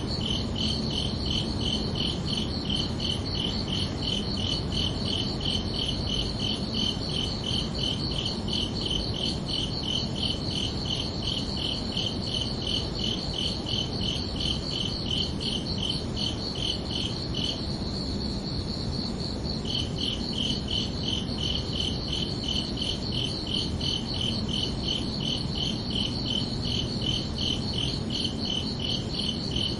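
Crickets chirping in a steady, even rhythm, two pitches at once. The higher one pulses throughout, and the lower one breaks off for about two seconds a little past the middle, then resumes. A steady low hiss lies underneath.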